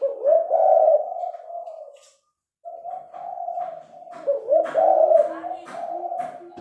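Spotted dove cooing: a string of low coos, broken by a half-second dead silence about two seconds in. A run of sharp clicks, about two or three a second, sounds over the cooing from about three seconds in.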